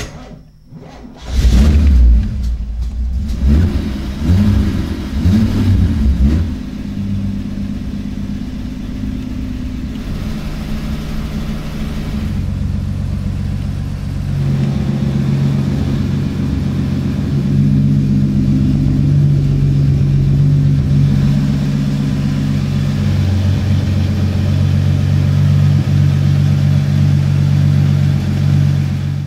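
Chevrolet Caravan's 4.1-litre inline-six comes in loud about a second in and is revved several times, then settles into a steady, deep rumbling idle.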